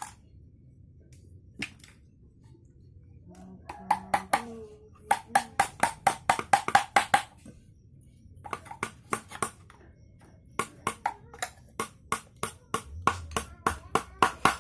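Rapid tapping on a hard, hollow object, about six or seven taps a second, in four bursts with short pauses between them; each tap rings briefly.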